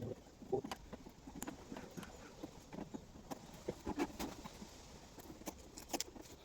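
Scattered light knocks, taps and clicks at an irregular pace, the handling sounds of small parts and hand tools being worked.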